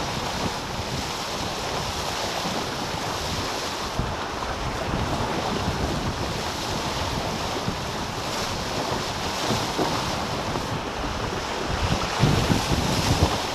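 Wind buffeting the microphone and water rushing along the hulls of a racing catamaran under sail, a steady rushing noise. The buffeting grows heavier near the end.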